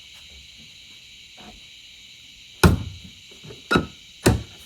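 Three sharp metallic clunks, the first the loudest, as the heavy steel parts of a strut coil spring compressor are handled and set down. A steady insect chirring runs underneath.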